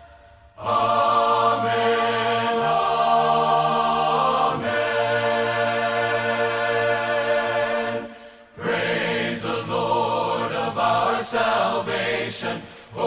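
Choir singing a hymn in long held chords, with a brief break about eight seconds in before the singing resumes.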